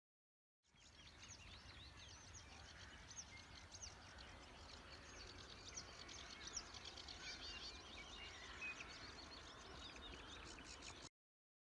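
Faint chorus of many small birds chirping and twittering over a low rumble of wind, starting abruptly under a second in and cutting off suddenly near the end.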